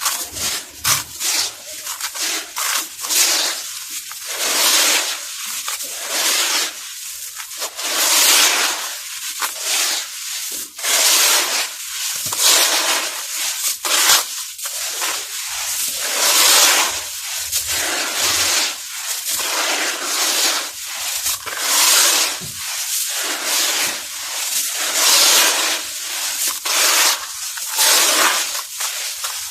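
Dusty molded mugs or bowls being crushed and crumbled, giving repeated grainy crunches, roughly one to two a second and irregular in loudness.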